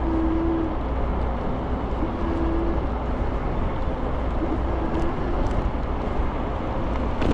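Steady wind and road rumble from riding an electric scooter, with a short low hum that comes and goes several times.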